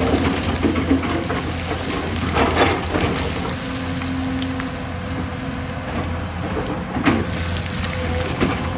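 Hyundai hydraulic excavator's diesel engine running steadily under load, with sharp knocks and rattling from rock and soil, loudest about two and a half seconds in and again just after seven seconds.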